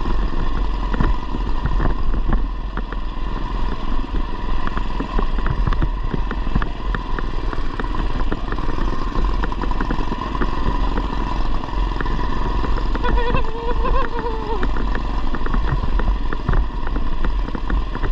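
Modified Coleman BT200x mini bike's 212cc single-cylinder engine running steadily under way, with frequent clicks and rattles. The engine pitch rises briefly about three-quarters of the way through.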